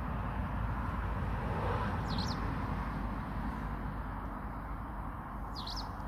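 A small bird gives two short, high chirps, one about two seconds in and one near the end, over a steady low rumble in the background.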